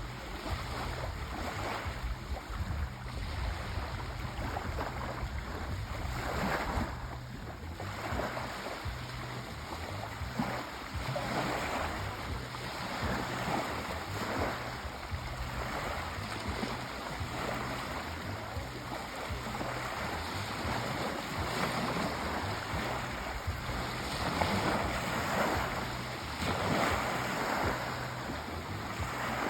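Sea waves washing in and out, a continuous rushing that swells and eases every few seconds.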